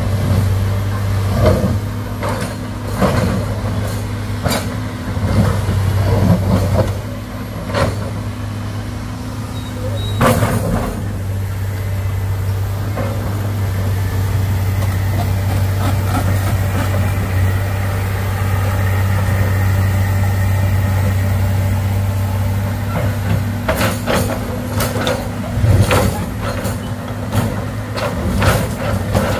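Heavy diesel engine running steadily, with repeated short clanks and knocks, more of them in the first third and again near the end.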